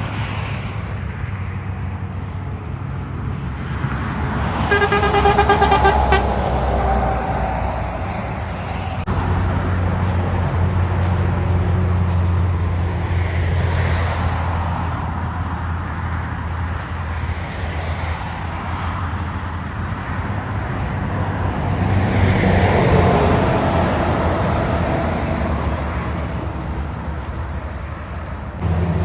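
Road traffic with heavy trucks passing, a steady low engine rumble swelling as each one goes by. About five seconds in, a vehicle horn sounds one note for about a second and a half.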